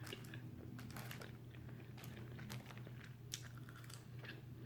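A person chewing a mouthful of gyro, pita and meat, close to the microphone: faint, scattered small clicks and mouth smacks, over a steady low hum.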